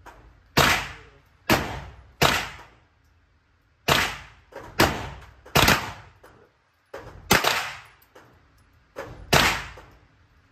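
Eight gunshots fired one at a time at an uneven pace, each a sharp crack followed by a short echoing decay.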